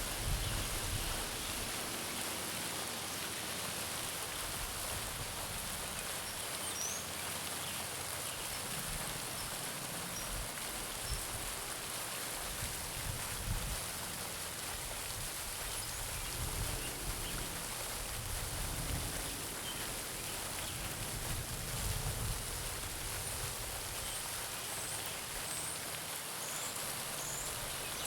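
Garden fountain splashing steadily into a pond, with a few faint bird chirps.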